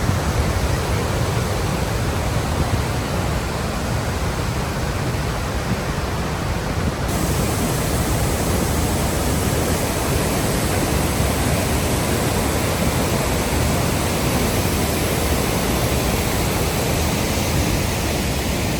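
Steady rushing noise of the Great Falls waterfall on the Passaic River. About seven seconds in, the high hiss grows brighter.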